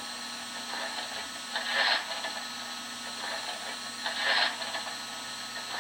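A model steam locomotive's Proto-Sound 3.0 sound system playing a fireman shovelling coal into the firebox: two short scrapes of the shovel a couple of seconds apart, over a steady low hum.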